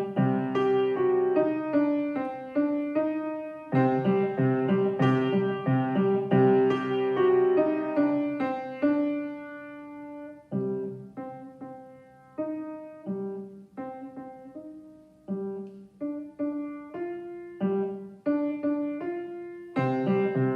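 Solo piano music: a student playing a piece, fuller and louder chords in the first half, then a softer passage of sparser single notes from about halfway, with loud chords returning near the end.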